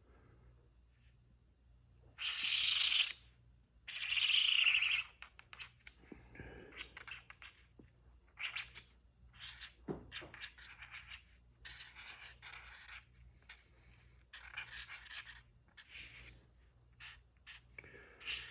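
Drawing strokes scratching across paper: two longer, louder strokes about two and four seconds in, then many short, quick strokes.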